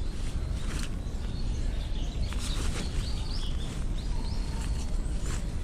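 Outdoor ambience: a steady low rumble under small birds chirping a few short calls, with a few faint clicks and rustles.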